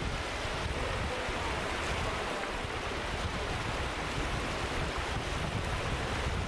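Wind buffeting the microphone: a steady rushing noise with uneven low rumbling.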